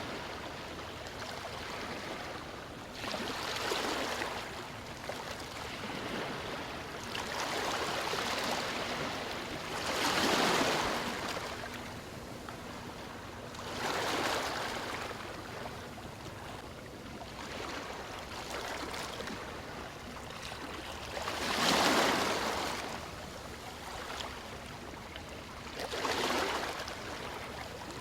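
Ocean waves breaking and washing in: a steady wash of surf that swells into a louder surge every few seconds, the biggest about ten and twenty-two seconds in.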